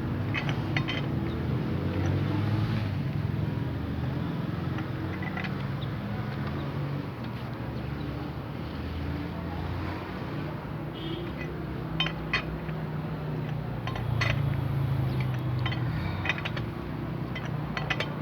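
Steady low rumble of a running vehicle engine, with a few sharp metallic clinks of parts and tools being handled, about twelve, fourteen and sixteen seconds in.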